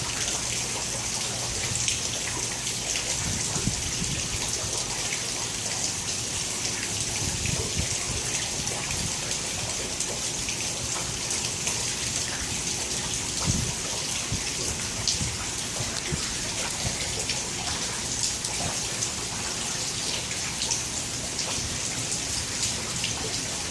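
Steady rain falling and splashing, an even hiss that holds level throughout, with a few faint low thuds.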